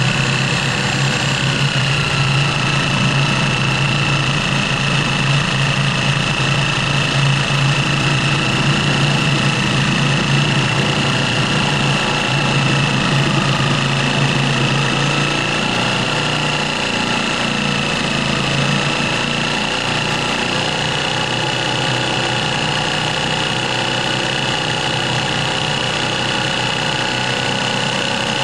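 Power cutting tool running steadily, cutting through a rusted, bent bolt, with a constant high whine over a low motor hum.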